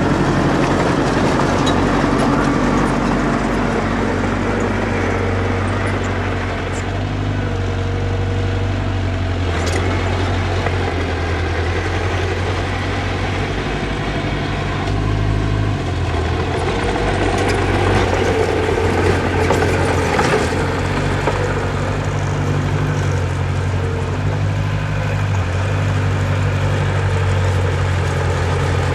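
Heavy construction machinery engines running steadily, their pitch shifting every few seconds as the load changes, with a few faint clanks.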